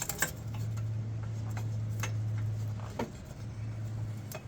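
A few light, sharp clicks and taps of metal parts and bolts being handled during the up-pipe fitting, over a steady low hum that drops out briefly about three seconds in.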